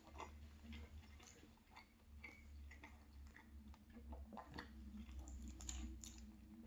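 Faint chewing of a caramel croissant: scattered soft mouth clicks over a low steady hum.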